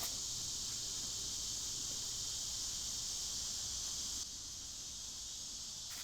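A steady, high, shrill chorus of insects that drops a little in loudness about four seconds in. The bugs are very loud.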